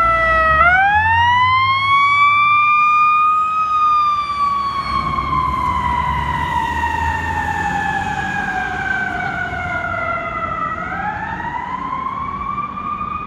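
Fire engine siren on a slow wail: the pitch climbs over about three seconds, slides slowly down for about seven seconds, then starts climbing again near the end. A low rumble from the truck runs underneath.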